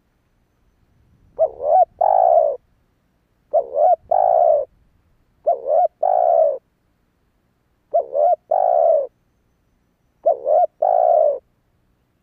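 Spotted dove cooing: five phrases about two seconds apart, each of quick short coos followed by one longer, slightly falling coo.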